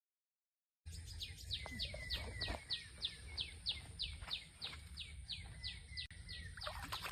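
A bird calling a fast run of short notes, each sliding down in pitch, about three or four a second, starting about a second in after a moment of silence. Low rumbling noise lies under it throughout.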